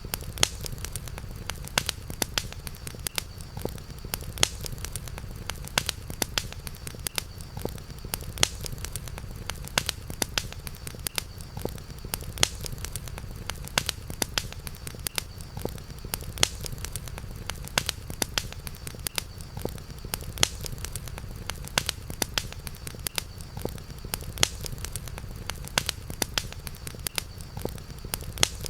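Campfire crackling: frequent sharp pops and snaps over a steady low rumble, with a faint steady high tone underneath.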